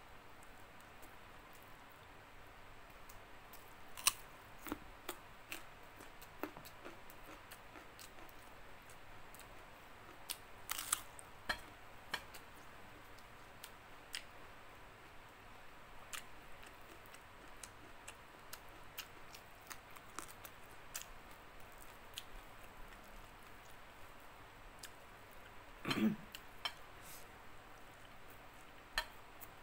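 Close-miked eating: a person chewing fried fish eaten by hand, with scattered small wet mouth clicks and smacks. One louder chew or bite comes near the end.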